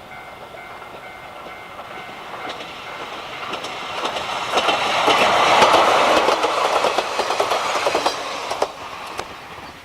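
A train passing close by, its wheels clicking over the rail joints; the sound builds to a peak in the middle and fades quickly near the end.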